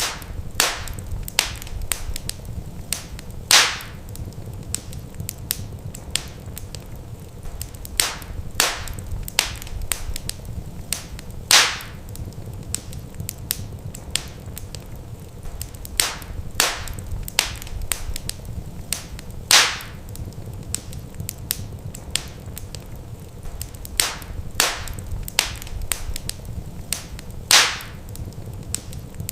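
Wood fire crackling in a fireplace: irregular sharp snaps and pops over a steady low rumble, with the loudest pops about every eight seconds.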